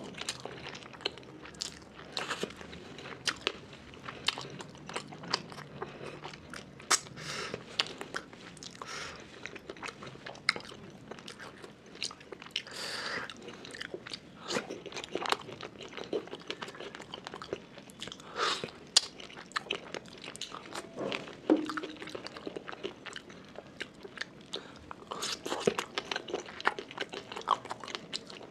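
Close-miked eating of rice and curry by hand: steady chewing with irregular sharp mouth smacks and crunching bites throughout.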